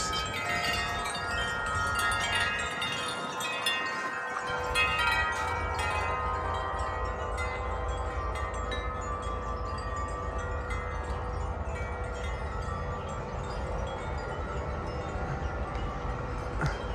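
Several tuned metal wind chimes ringing together in a big gust of wind, with many overlapping tones. The strikes are densest for the first six seconds and then thin out to fewer, lingering tones. A low wind rumble comes in from about four seconds in.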